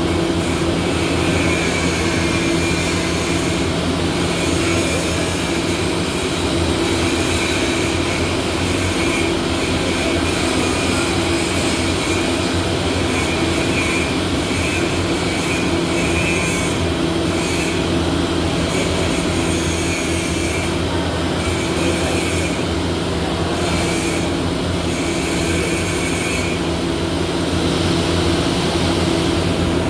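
Steady, loud machine noise in a welding workshop: a continuous low hum with a high-pitched whine that cuts in and out every second or two and drops out near the end.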